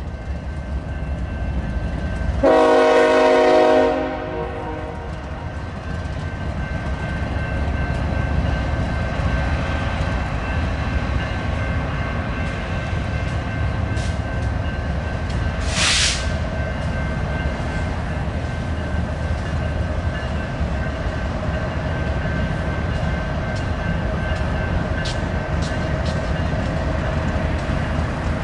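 Diesel freight locomotive horn sounding one short blast of about a second and a half, a couple of seconds in, followed by the steady rumble of a passing intermodal freight train, with a brief hiss around the middle.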